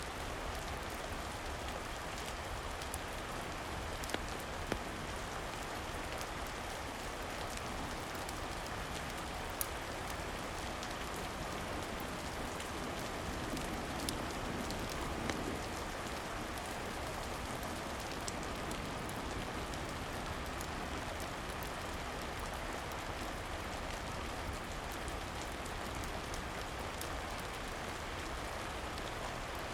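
Steady rain falling, an even hiss with a low rumble beneath. A few sharp ticks stand out now and then.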